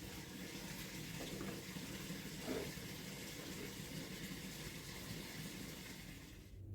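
Water running or pouring steadily, with a brief rise in pitch about two and a half seconds in.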